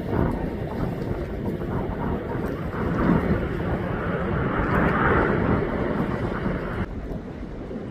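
Jet airliner engine noise, swelling about three seconds in and easing off near the end, with wind rumbling on the microphone.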